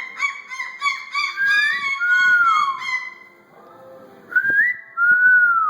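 Moluccan cockatoo calling loudly and shrilly, agitated calls that the owner puts down to jealousy: first a quick run of short calls, then long whistling calls that rise and fall in pitch, with a short lull about three and a half seconds in.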